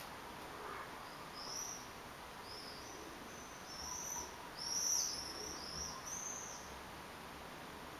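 A small bird chirping a run of short, high, arched notes, loudest about five seconds in.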